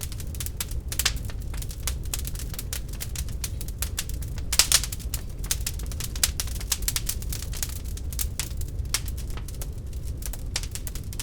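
Wood fire crackling in a fireplace: an irregular run of sharp pops and snaps over a low, steady rumble, with a louder cluster of pops about four and a half seconds in.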